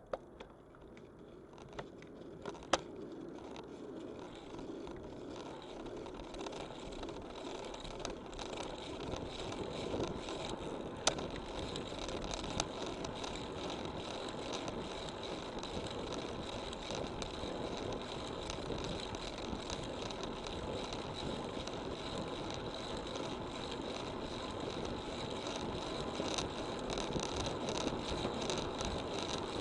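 Road bicycle rolling along: tyre and wind noise grow louder over the first ten seconds as it gathers speed, then hold steady, with a few sharp clicks in the first half.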